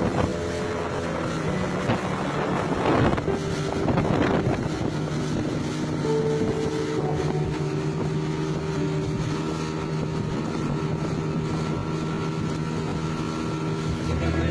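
Small boat's engine running steadily, with wind buffeting the microphone in gusts a couple of seconds in.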